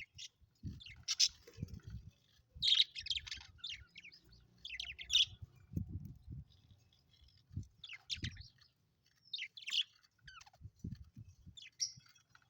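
Budgerigars chirping and chattering in short, irregular bursts of high warbling notes, with soft low thumps scattered among them.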